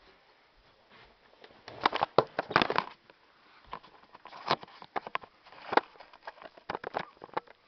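Irregular clicking, rattling and knocking of plastic parts being handled and set down, with a dense flurry of clicks about two seconds in and a few sharp single knocks later.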